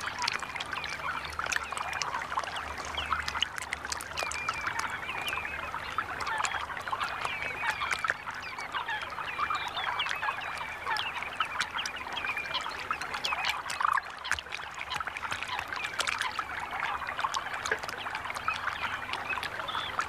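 A dense, continuous chorus of many short bird calls over splashing, trickling shallow water.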